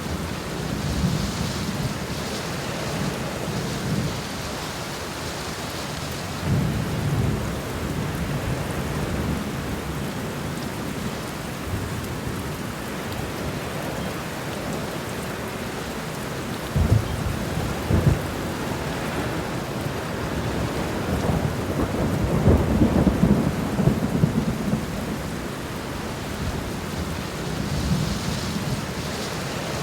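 Steady rain falling, with repeated low rumbles of thunder. The longest and loudest rumble comes about two-thirds of the way through, after two short sharp cracks.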